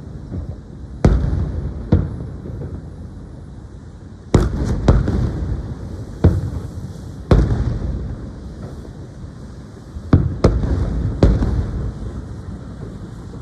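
Fireworks shells bursting in a display: about nine sharp booms at uneven intervals, some in quick pairs, each trailing off in a low rumble.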